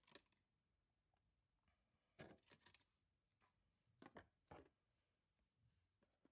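Near silence: room tone with a few faint, short rustles.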